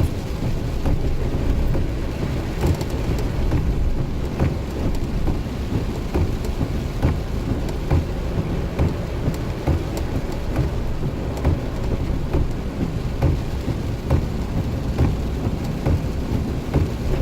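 A Jeep driving on rain-soaked roads, heard from inside the cab: a steady low rumble of road and engine, with a scattered ticking of rain and water spray on the body.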